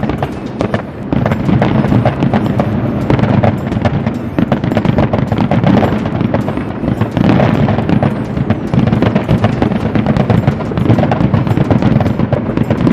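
Fireworks and firecrackers going off in many places at once: a continuous dense run of rapid pops, crackles and bangs.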